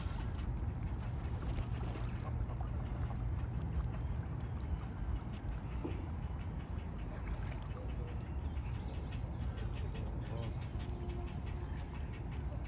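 Lakeside ambience: a steady low rumble with scattered waterbird calls, duck-like quacks among them. Around the middle a small bird gives a quick run of short, high chirps.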